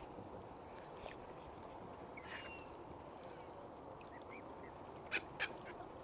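Waterbirds calling: scattered short calls, with two louder sharp calls in quick succession near the end, over a steady low background noise.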